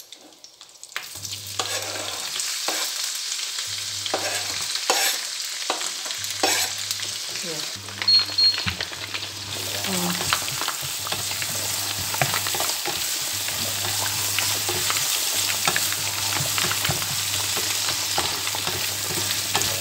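Chopped garlic, shallots, chillies and ginger sizzling in hot oil in a frying pan, stirred with a spatula that scrapes and knocks against the pan. The sizzle starts about a second in as the aromatics go into the oil.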